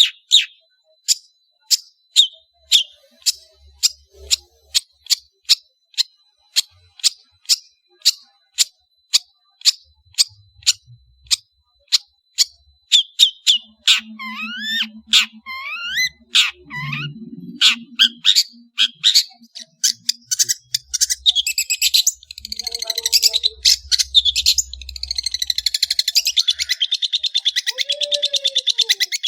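Long-tailed shrike (cendet) singing: a run of short, sharp high notes repeated about two to three times a second, then quick sweeping whistles in the middle, turning into a fast continuous chatter for the last third.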